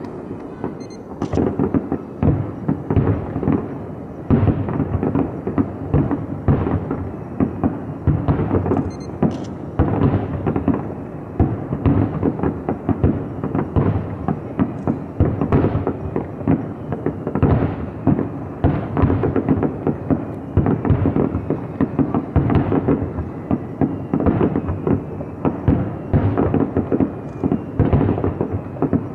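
Fireworks shells bursting one after another in a dense barrage, many booms a second overlapping with their echoes.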